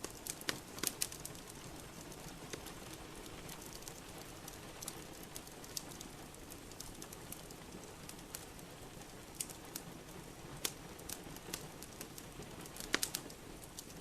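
Wood fire in a fireplace crackling, with scattered sharp pops and a cluster of louder ones about a second in and again near the end, over a steady hiss of rain.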